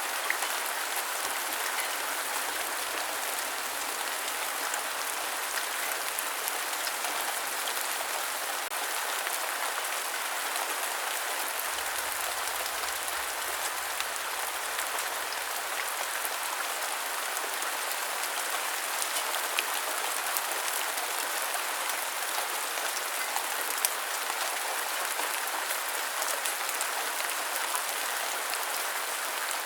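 Rain falling steadily, an even hiss with scattered sharp ticks of single drops.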